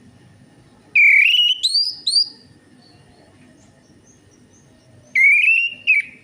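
Orange-headed thrush singing two loud whistled phrases: the first about a second in, three notes stepping up in pitch; the second about five seconds in, a held whistle followed by a short note.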